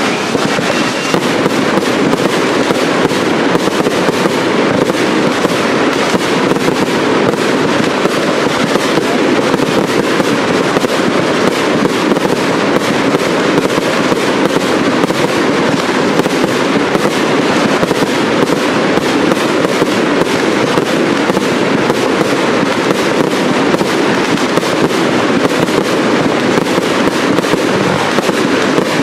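Professional cake fireworks firing in rapid succession: a dense, unbroken crackle of launches and bursts that stays at the same loudness throughout.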